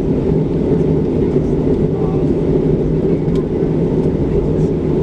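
Steady low rumble inside the cabin of a Boeing 737-700 on the ground, its CFM56-7B engines running at idle, with a constant hum under the noise.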